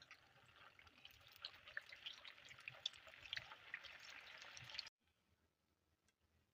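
Snacks deep-frying in hot oil: a dense sizzle full of small sharp crackles and pops, cutting off abruptly about five seconds in.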